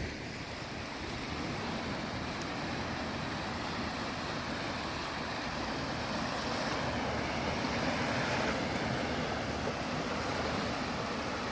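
Sea waves washing in: a continuous rushing wash that swells louder about seven to eight seconds in, then eases.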